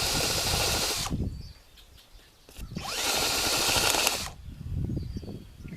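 Power drill with a maple-tapping bit boring into a dried birdhouse gourd, in two runs: the first stops about a second in, and the second spins up with a rising whine just before three seconds and runs about a second and a half. A few low knocks of handling follow.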